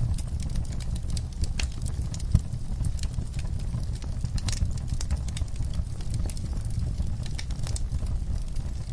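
Wood logs burning in a fireplace, crackling with frequent irregular snaps and pops over a steady low rumble, one louder pop about two and a half seconds in.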